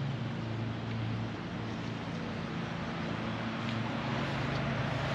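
Car engine idling steadily, a low even hum with a faint rushing noise over it.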